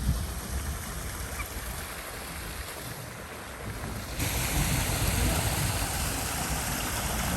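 Mountain stream rushing over rocks, a steady noisy wash of water with a low rumble, jumping louder and brighter about four seconds in.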